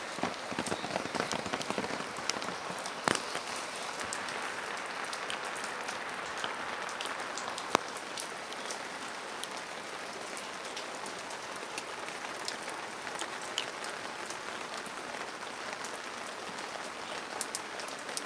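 Steady rain falling, with many close drops pattering and a couple of sharper drop taps about three and eight seconds in.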